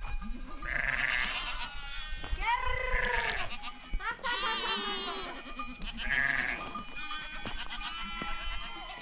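Goats and sheep bleating, one call after another about every second or two, some calls overlapping, several with a quavering pitch.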